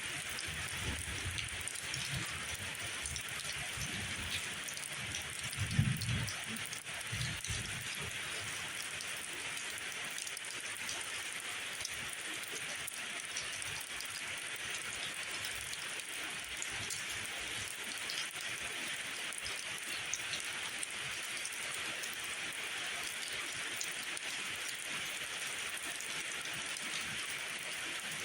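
Steady rain falling, an even patter of drops. A few short low thuds come in the first several seconds, the loudest about six seconds in.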